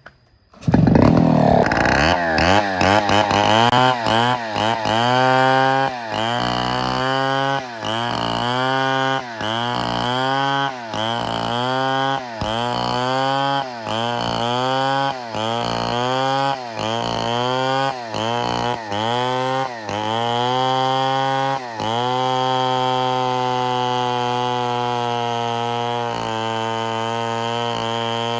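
Two-stroke chainsaw starting up suddenly and running hard, its engine speed rising and dipping about every second and a half, then held at a steady high speed for the last few seconds.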